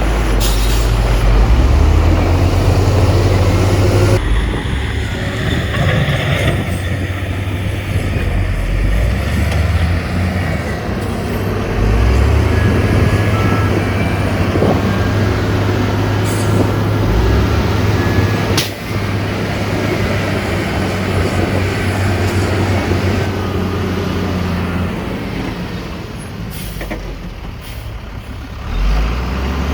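Heavy diesel engines of construction machinery, a dump truck and bulldozer, running steadily with a deep rumble. A hiss of air comes about four seconds in, and there is a single sharp click past the middle.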